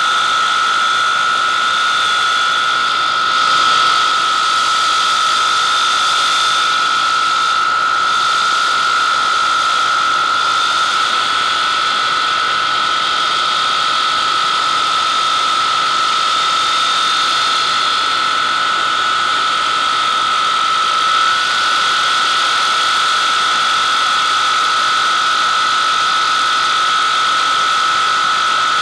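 Avro Vulcan bomber's Rolls-Royce Olympus turbojet engines running, a loud steady high-pitched whine over a continuous jet rush.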